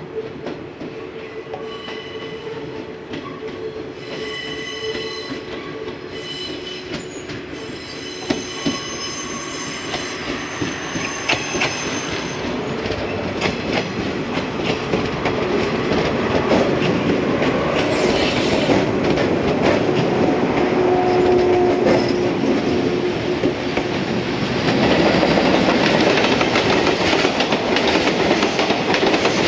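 Passing trains: the yellow local electric train of set D16, then the container wagons of freight train 5057 hauled by an EF210 electric locomotive, wheels clattering over the rail joints. A high, steady squeal of several tones sounds through the first twelve seconds. The noise grows louder as the freight wagons roll past, with a short horn blast about twenty seconds in.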